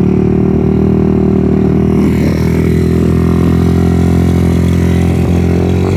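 Single-cylinder 125cc mini bike engine running steadily close by, held at an even speed without revving.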